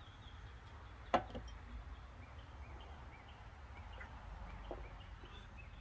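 Faint, short high chirps from a small bird repeat irregularly, a few each second, over a low steady outdoor rumble. A single sharp knock about a second in is the loudest sound.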